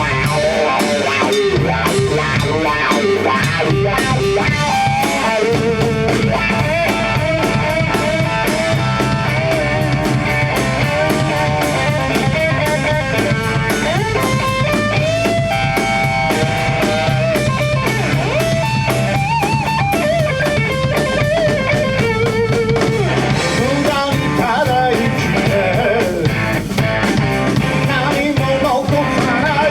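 Rock band playing an instrumental passage: a guitar melody with bending notes over drums and bass guitar.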